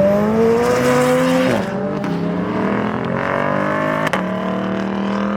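A car engine accelerating hard, its revs rising, dropping once at a gear change about a second and a half in, then climbing and holding high. A sharp crack about four seconds in.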